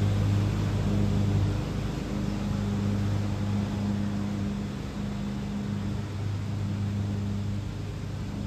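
Steady engine drone with a low hum under a rushing noise, slowly fading.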